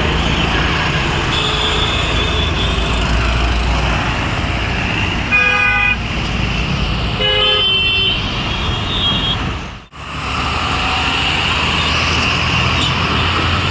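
Road traffic with heavy bus engines running, and a vehicle horn sounding two short, loud, multi-tone blasts about five and seven seconds in. The sound cuts out abruptly near ten seconds and the traffic rumble resumes.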